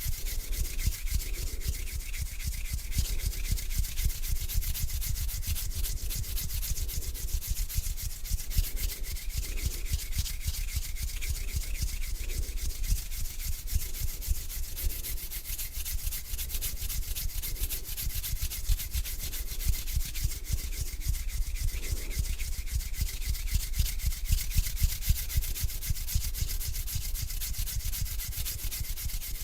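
A person's hands rubbing together slowly, a continuous dry rubbing that swells with each stroke about once a second.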